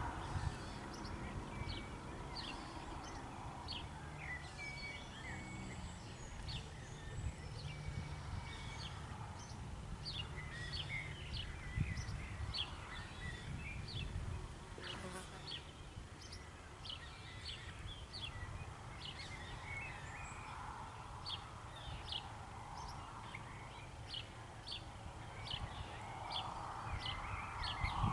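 Small birds chirping and singing, many short, high notes repeating throughout, over a steady low rumble.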